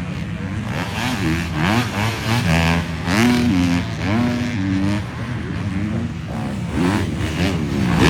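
250-class motocross bikes racing past, their engines revving up and falling off again and again as the riders work the throttle and shift through jumps and corners, several bikes overlapping.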